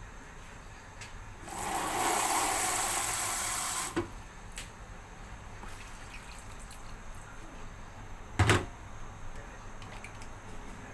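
Water poured into the soup pot for about two and a half seconds, ending with a click; a short, sharp knock comes about eight and a half seconds in.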